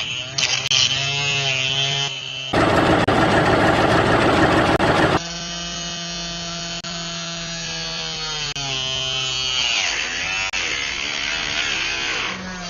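Small electric motors whining, their pitch rising and falling under changing load, with a louder rough grinding noise for about two and a half seconds near the start.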